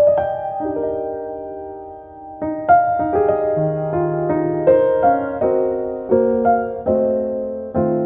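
Background music: a slow, gentle piano piece of held chords and melody notes, with a brief lull about two seconds in.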